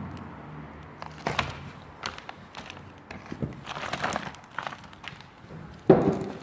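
Scattered knocks, clicks and rustling from tools and parts being handled, with one louder knock near the end.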